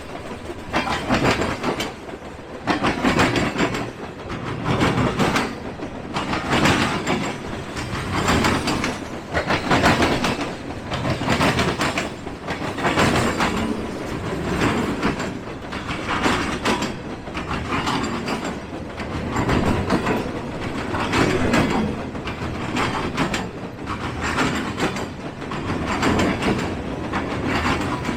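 Freight train cars rolling past, wheels clacking over the rail joints in a steady rhythm of roughly one clack a second.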